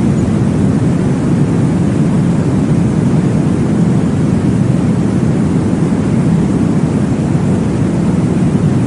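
Steady, deep whooshing noise with no beat or pauses, the kind of whoosh a baby-sleep womb-sound track plays to copy blood flow in the womb.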